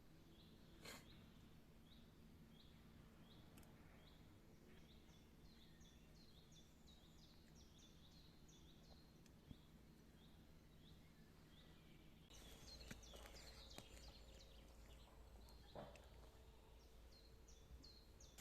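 Faint outdoor birdsong: a bird repeats a short high chirp about twice a second, with more high chirps crowding in during the middle. About twelve seconds in, a louder rustling noise with a few clicks comes in.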